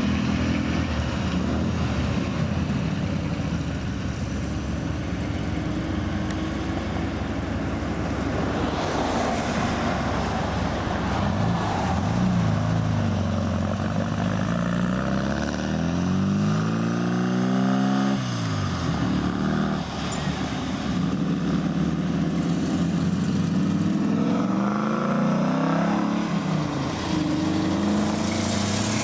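Classic car engines running as cars pull out one after another. Several rise in pitch as they are revved; the clearest climbs steadily for a few seconds and drops off sharply about two-thirds of the way through.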